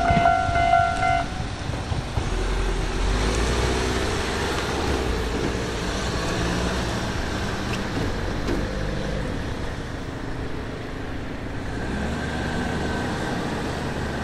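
An electric train horn sounds one steady note that ends about a second in. After it comes the steady rumble of a train running.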